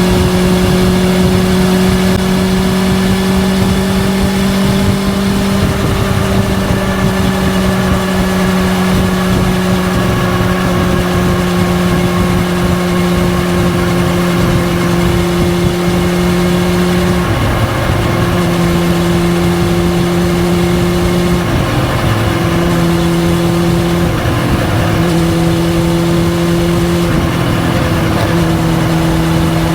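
Honda CB400SF Hyper VTEC inline-four running through a Yoshimura titanium full-system exhaust, held at a steady high engine speed while riding, its pitch sagging slightly over time. In the second half the engine note dips briefly four times as the throttle is eased and picked up again.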